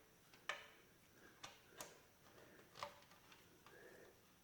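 Near silence broken by four faint metallic clicks, the last about three seconds in. They are a magnetic pick-up tool knocking against the tappet bores of an engine block as the tappets are fished out.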